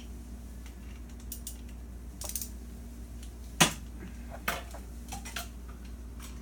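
Metal hand tools clicking and clinking: a ratchet and 3/8-inch socket extension being handled, with one sharp clink a little past halfway and a few lighter taps around it, over a steady low hum.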